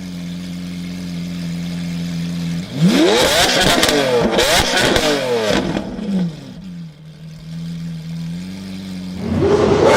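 Sports car engine idling steadily, then revved hard several times in quick succession about three seconds in, its pitch sweeping up and down before settling back to idle. Near the end it is revved again.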